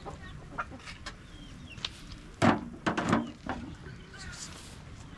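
Chickens clucking: a few short, sharp clucks, the loudest cluster about halfway through.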